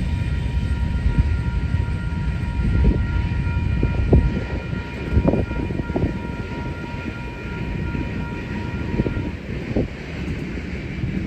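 A freight train rolling past with a steady low rumble and a few sharp clanks. A faint steady high whine runs alongside and fades out about nine seconds in.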